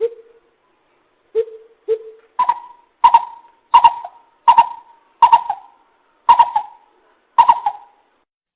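A coucal (bìm bịp) giving a series of about ten hoots. The first three are low, and from about two seconds in the hoots are higher and evenly spaced.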